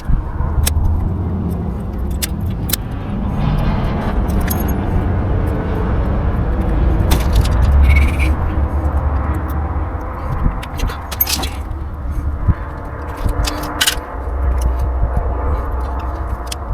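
A motor vehicle running with a steady low rumble, with light clicks and jangling rattles over it.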